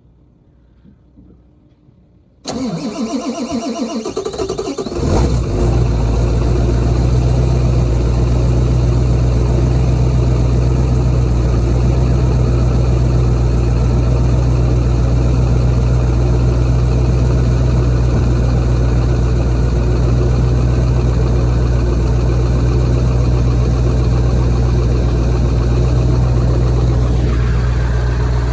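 2001 Ford F-350's 7.3 L Power Stroke turbo-diesel V8 cold-started with no block heater: about two seconds in the starter cranks it for a couple of seconds, the engine catches, and it settles into a steady loud idle.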